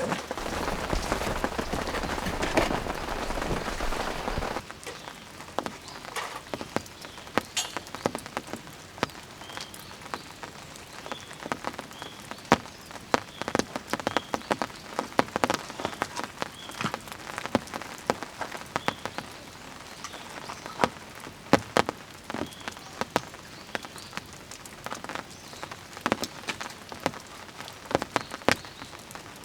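Rain falling: a dense, steady patter for about the first four seconds, then it drops abruptly to lighter rain, with separate drops tapping irregularly.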